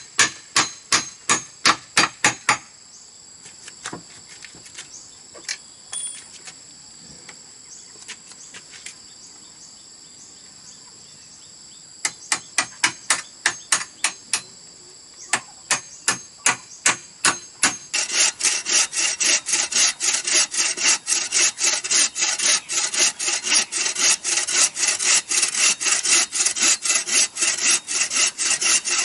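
Bamboo being worked by hand: runs of sharp, evenly spaced blows, about three a second, with pauses between. About two-thirds of the way in, a hand saw starts cutting through bamboo in quick, steady strokes, and this sawing is the loudest part. In the first half, insects buzz steadily in the background.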